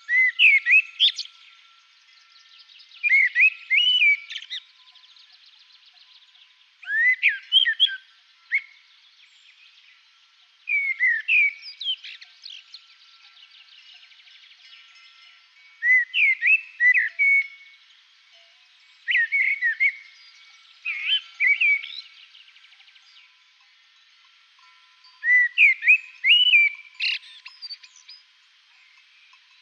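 A songbird singing short, clear warbled phrases of quick up-and-down notes, one phrase every few seconds with pauses between.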